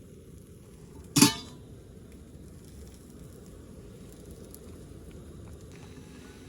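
A single sharp metallic clank about a second in, ringing briefly, as of metal cookware or a utensil knocked together, over a steady low background hiss.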